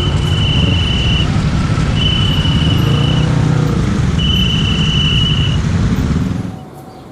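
A train rumbling past over a level crossing, loud and steady, then falling away sharply about six and a half seconds in as it clears. Over it, a high steady beep sounds three times, each a little over a second long, from the level crossing alarm.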